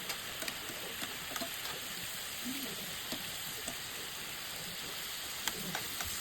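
Brined chicken frying in a hot pan on the stove: a steady sizzle with scattered sharp pops and crackles.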